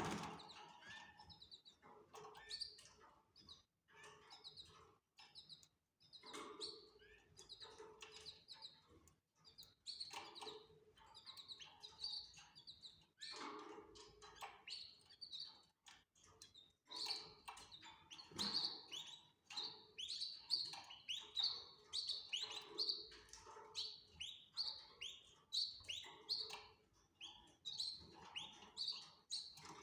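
Canaries chirping: a steady stream of short, quick chirps, busier and louder in the second half.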